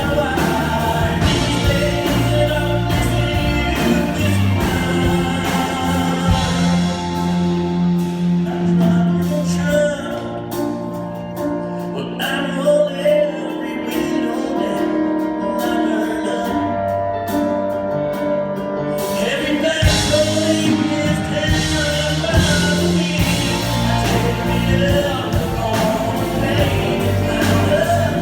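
Male vocalist singing a country ballad with a live band. About ten seconds in, the accompaniment drops back to a sparser, quieter passage, and the full band comes back in near twenty seconds.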